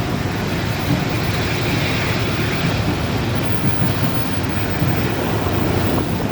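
Freight train rolling past close by, a steady loud rumble of wheels on rail; the train is empty auto-rack cars led by a Norfolk Southern GE Dash 9 locomotive working upgrade.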